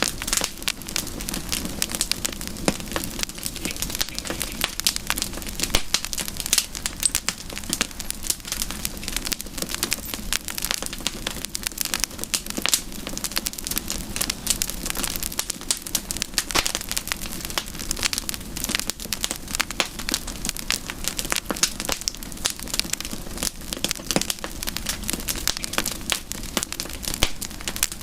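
Campfire burning with dense, irregular crackling and popping of burning wood over a steady hiss.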